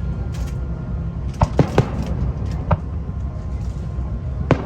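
Fireworks bursting in a string of sharp bangs, about five of them with three in quick succession, over a steady low rumble.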